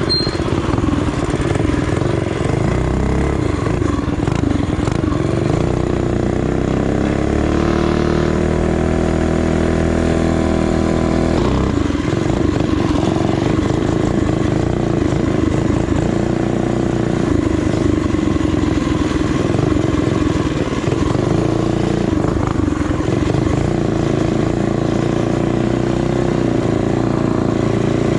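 Small single-cylinder four-stroke minibike engine running under way, with a rough, steady drone; the revs climb about eight seconds in and drop back near twelve seconds.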